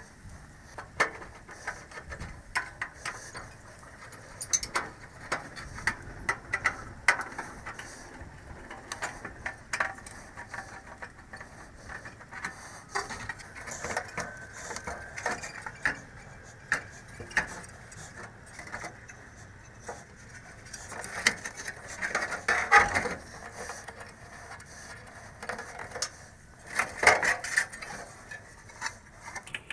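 Irregular clicks, taps and clanks of hand tools and metal parts being handled while the heater's outdoor unit is worked on, with louder clusters of knocks about two thirds of the way in and near the end.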